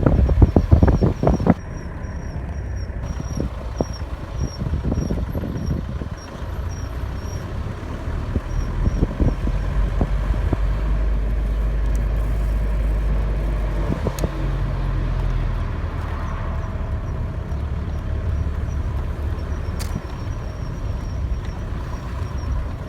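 VW Passat B5 rolling slowly with a repeating short, high-pitched scratching chirp from a wheel, a couple of times a second and spacing out as the car slows, over the low rumble of the car. The noise persists after new brake discs and pads and stops when the brake is pressed.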